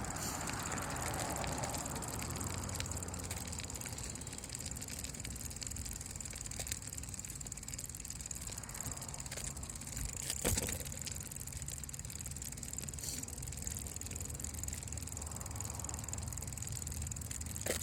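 Steady wind and rolling noise on a handlebar-mounted camera as a bicycle is ridden, a low rumble with a constant hiss. A single sharp knock about ten seconds in.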